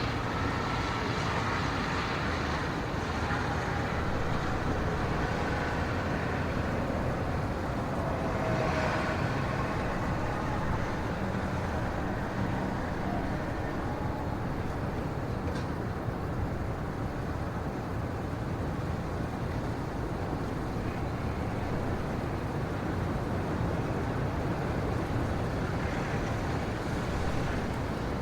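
A steady, even rumble with hiss, with no distinct events.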